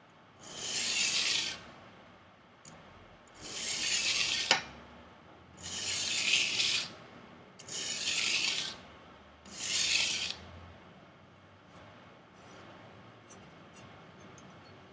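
A Chinese chef knife's edge drawn across 320-grit sandpaper in five slow rasping strokes, about a second each and two seconds apart, convexing the edge; after the fifth stroke it falls quiet apart from a few faint ticks.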